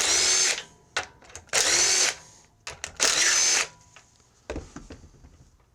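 Cordless power drill spinning out the sump cover bolts of a small engine in three short bursts of about half a second each, its motor whine dipping and recovering in each one. A few light clicks and knocks follow near the end.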